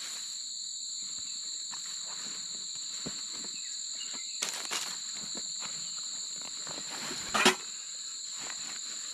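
Insects trilling steadily in two high, unbroken tones, with rustling and light knocks of camping gear being handled and unpacked, and one louder knock near the end.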